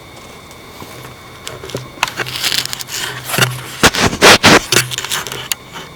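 Footsteps crunching on frozen, ice-heaved ground and dry leaves: irregular crunching and crackling that starts about two seconds in and is loudest around four seconds in.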